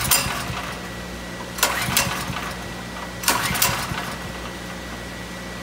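Ryobi 5500/6875-watt portable generator being pull-started: three yanks of the recoil cord about a second and a half apart, each a short rattle of the engine turning over that dies away without catching. A steady low hum runs underneath.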